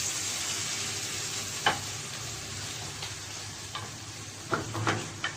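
Chicken and pear pieces sizzling in hot oil in a kadai: a steady hiss that slowly grows quieter, with a few sharp clicks of a spoon against the pan, louder near the end.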